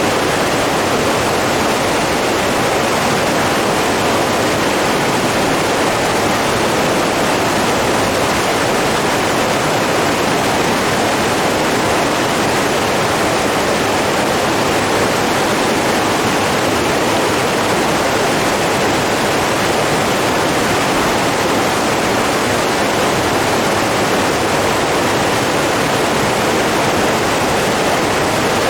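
Running water with a steady, even rush that does not change.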